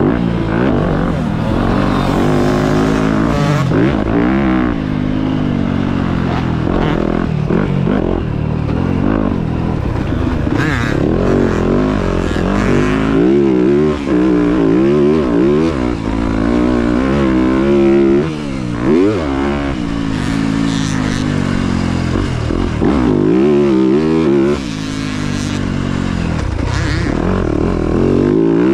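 Motocross dirt bike engine running hard, revving up and down again and again with its pitch rising and falling throughout.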